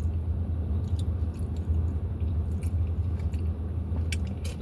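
A person chewing a mouthful of soft flour-tortilla taco close to the microphone, with a few sharp wet mouth clicks near the end, over a steady low hum.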